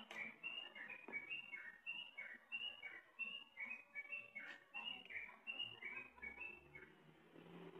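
A bird chirping over and over, each call a short higher note dropping to a lower one, about twice a second, stopping near the end.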